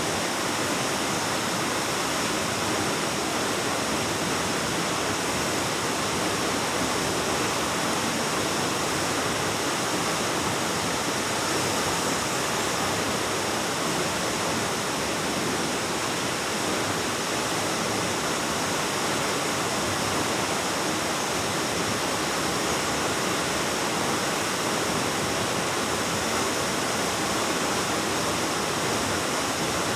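Waterfall: water rushing steadily, a constant, unbroken noise with no change in level.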